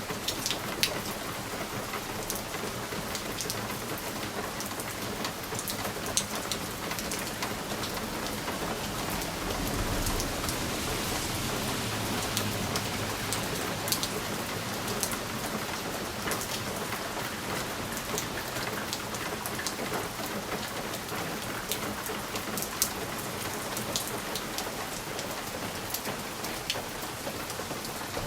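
Steady rain on a window pane: an even hiss with scattered sharp ticks of single drops striking the glass. A soft low rumble swells and fades about ten seconds in.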